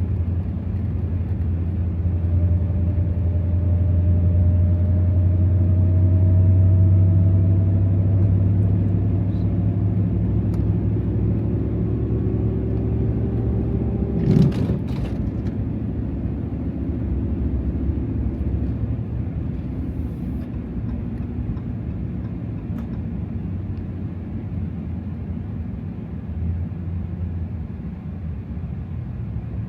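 2024 Ram TRX's supercharged 6.2-litre V8 running under way in snow, with a low hum and a whine that rises slowly in pitch as the truck gathers speed. A brief sharp knock comes about halfway through, after which the engine settles to a steadier, slightly quieter drone.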